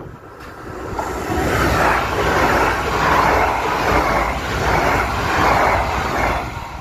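Regio 2N double-deck electric train passing close by at speed: a loud rushing noise of wheels on rail and moving air. It builds about a second in, swells several times as the cars go by, and eases near the end.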